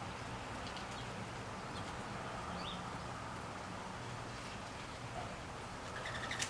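A few faint, short bird chirps over a steady low background hum, with a quick cluster of chirps and a small tick near the end.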